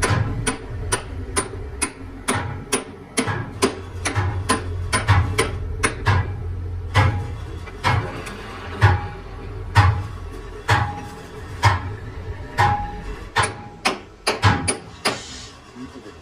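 Hammer blows on a metal part, struck over and over, about two a second at first and about one a second from midway, each with a brief metallic ring, over a steady low machine hum.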